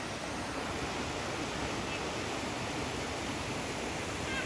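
Steady rushing of a 200-foot waterfall, heard from its base as an even wash of falling water.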